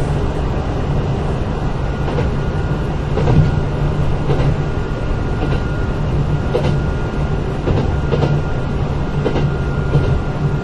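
Kintetsu 8000-series electric train car running at speed, heard from inside: a steady low rumble from wheels and running gear with a thin steady whine. Wheels clack over rail joints about once a second.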